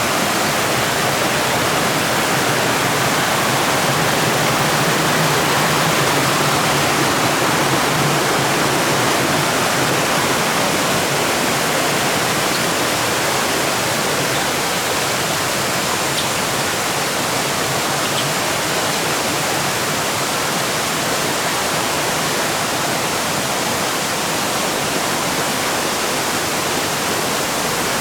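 Shallow river water rushing over rocks through the flooded forest, a loud, steady, unbroken rush.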